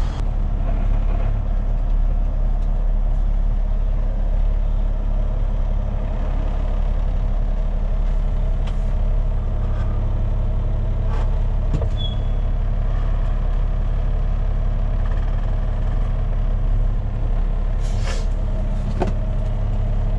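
Heavy diesel truck engine running steadily under way, with a few light clicks and knocks along the way.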